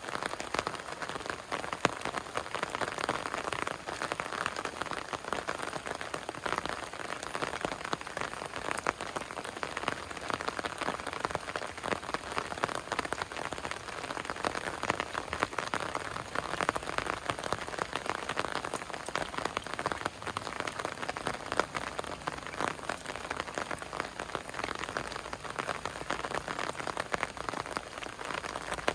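Heavy rain falling steadily on surfaces, a dense even patter with many sharp drop hits.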